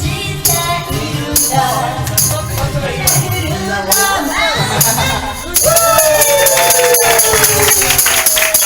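Karaoke backing music with a steady beat, a tambourine and a woman singing along. About five and a half seconds in, the music turns louder and denser, with a long sung note falling in pitch.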